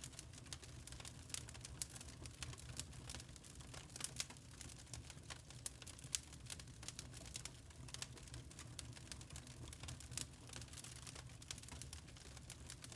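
Burning charcoal crackling: many small irregular snaps and ticks over a low steady rumble.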